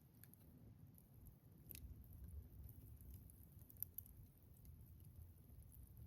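Wood campfire burning quietly, with faint scattered crackles and pops from the burning wood over a low rumble; the sharpest pop comes about four seconds in.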